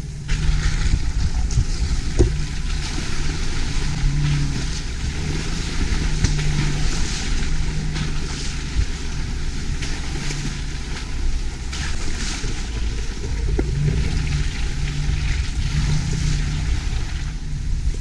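Vehicle engine running with a low hum that swells and fades, under a loud steady rushing noise of wind or tyres.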